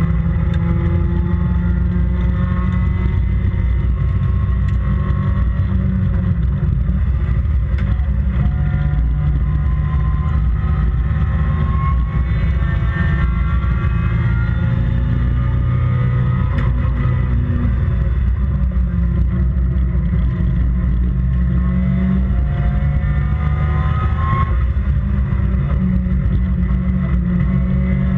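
Toyota 4A-GE twin-cam four-cylinder engine of an MG Midget race car under hard acceleration, its revs climbing steadily and dropping back several times as it shifts gears.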